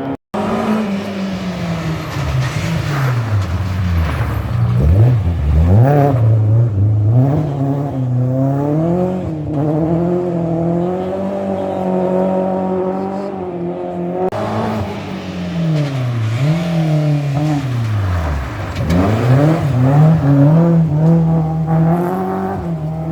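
Rally car engines being driven hard on a special stage. The pitch repeatedly drops and climbs as the drivers lift off the throttle, change gear and rev back up, with several deep swoops down and up.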